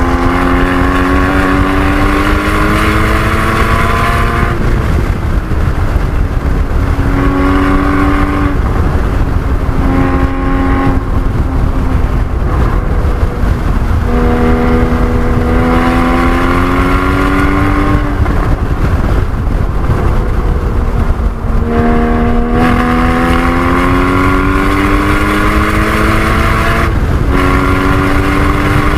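Porsche 981 Cayman GT4's 3.8-litre flat-six pulling hard through the revs, its pitch climbing and then falling away several times at gear changes and lifts for braking, over heavy wind and road noise.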